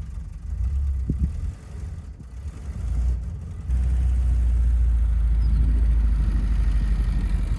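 Volkswagen Vanagon Westfalia's engine and road noise heard from inside the van as it gets under way; a low, steady rumble that grows louder about three and a half seconds in, with a few light knocks before it.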